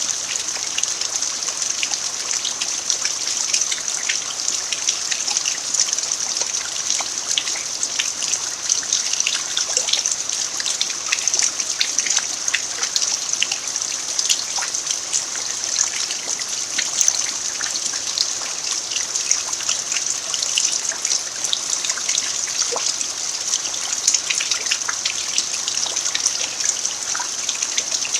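Steady rain falling, with a constant hiss and many small drop ticks scattered through it, and trickling water mixed in.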